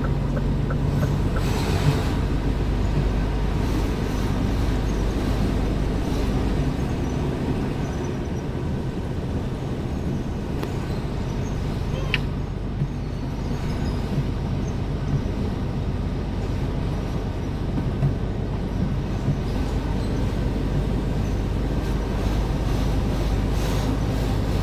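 Scania R410 truck's 13-litre six-cylinder diesel and road noise while driving, a steady rumble. The engine note is clear at first, fades after about a second and comes back near the end, with a single sharp click about halfway through.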